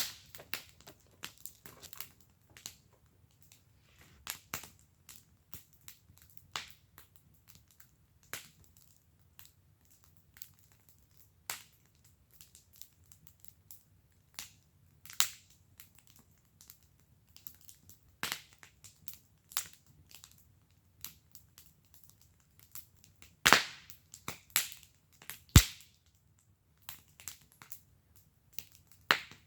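Wood fire burning in a fire pit, crackling with irregular sharp pops and snaps, two louder pops near the end.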